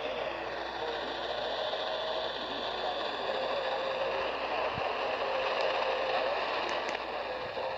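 AM radio receiver tuned to 1340 kHz giving out steady static and hiss, with a faint mid-pitched tone that comes and goes and wavers a little, plus a few sharp clicks: the strange noise heard on that frequency.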